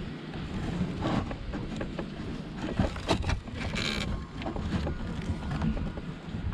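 Scattered light clicks and knocks of a truck's fuel pump assembly and its fuel line being handled and turned over, with a brief hiss about four seconds in, over a low rumble.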